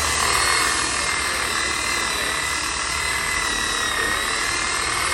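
Electric rotary polisher running steadily, buffing a car body panel with polishing compound: a steady motor whine over a rushing noise, dipping slightly in pitch about four seconds in as it is pressed against the panel.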